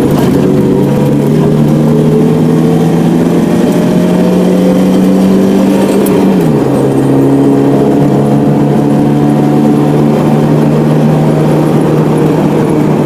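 Car engine running while driving, its pitch rising slowly, then dropping sharply about six seconds in and holding steady, over a haze of road noise.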